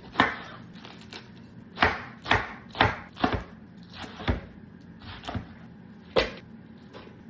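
Kitchen clatter: a string of about eight sharp knocks and clunks at uneven intervals, as cookware and utensils are handled and set down.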